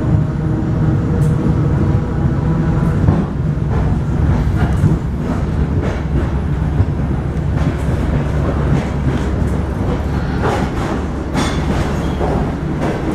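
Interior running noise of an ER2 electric multiple-unit passenger car under way: a steady low rumble from the running gear, with wheels clicking over rail joints, most thickly about ten to twelve seconds in. A whine heard at the start fades out about three seconds in.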